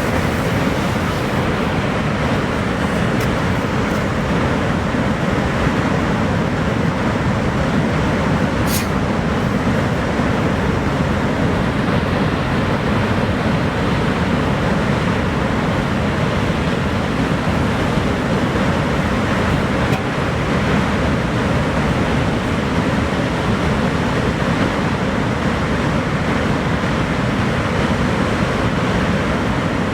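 Niagara Falls' water pouring down in a steady, dense rush of noise, heaviest in the low range and unchanging throughout.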